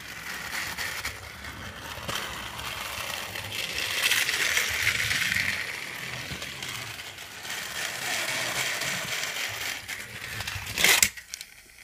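A battery-powered Trackmaster motorized toy train runs along plastic track, its small motor and gears whirring and its wheels rattling. Near the end comes one sharp, loud crash as the engine hits the crash set-piece and breaks apart.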